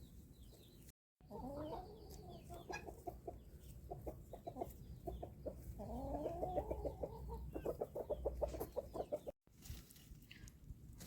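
Chickens clucking, with quick runs of short clucks and a few rising, drawn-out calls. The sound drops out completely twice, briefly: once about a second in and once near the end.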